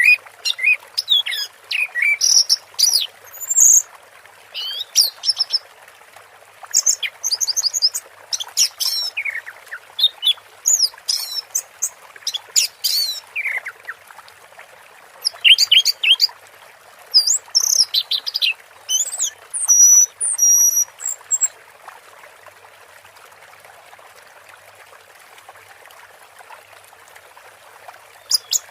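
Orange-headed thrush singing a fast, varied run of chirps, whistles and trills over a steady trickle of running water. The song stops about three-quarters of the way through, leaving only the water.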